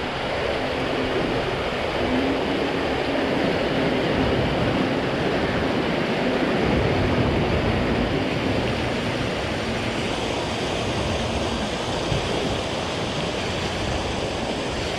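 Steady wind rushing over the microphone, with waves breaking on open water. A faint steady hum runs under it through the middle stretch.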